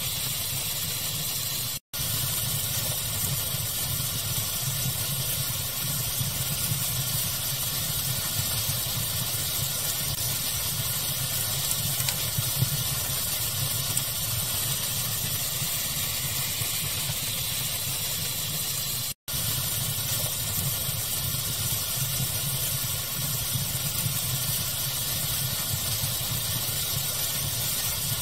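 Steady pink-noise hiss with a low rumble, from a fireplace ambience track, with only a few faint pops. It cuts to silence for an instant twice, a little under two seconds in and again near nineteen seconds.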